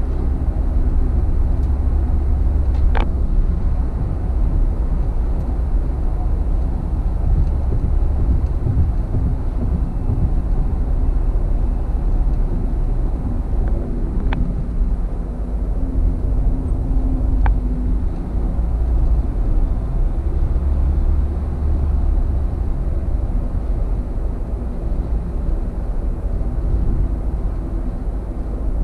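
Car interior at highway speed: steady low road and engine rumble in the cabin, with a few faint clicks.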